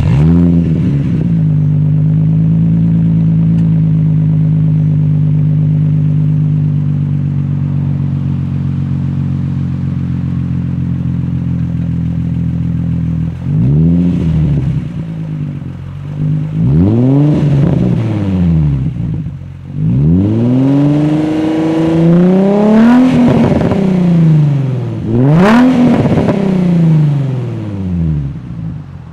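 Infiniti G35's 3.5-litre V6 through a custom exhaust: it catches and flares right at the start, then idles steadily. From about halfway it is blipped through about five free revs, one held a little longer, each dropping back to idle.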